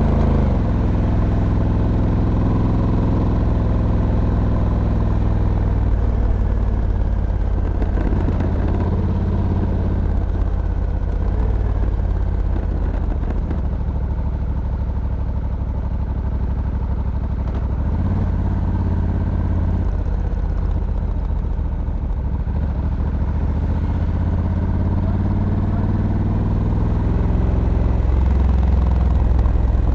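Honda Africa Twin DCT's 1084 cc parallel-twin engine running on the road, its revs rising and falling as the dual-clutch gearbox shifts. The revs drop just after the start and climb steadily over the last several seconds.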